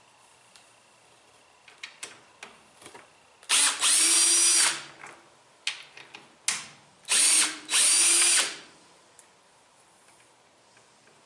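Power drill/driver spinning up in two short runs about three seconds apart, the second broken into quick stop-start spurts, as screws are driven out while the washer is taken apart. Light clicks and knocks of handling come before the first run.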